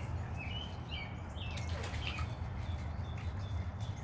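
Small birds chirping, short high notes repeating about twice a second, over a steady low hum.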